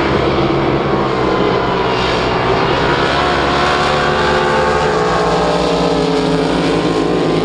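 Drag boat engine running loud and steady, its pitch sagging slightly over the first couple of seconds and then holding.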